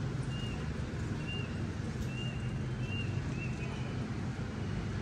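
A steady low rumble, with a small bird chirping about six short, high notes in the first few seconds.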